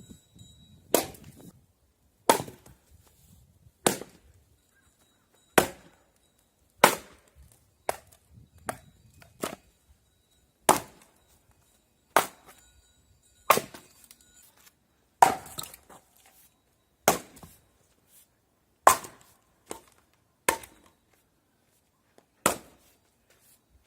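Firewood being split by hand with an axe: a steady series of sharp chopping strikes, one every second and a half or so, with a few lighter knocks between some of them.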